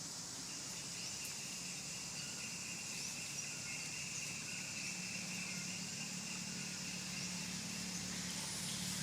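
Steady, shrill insect buzzing, with a motor vehicle's engine hum growing louder over the last few seconds.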